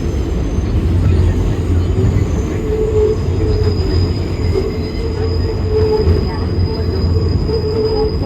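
Inside an R188 subway car of the 7 train under way: loud, steady rumble of wheels and traction motors on the rails, with a thin, high wheel squeal held through most of it.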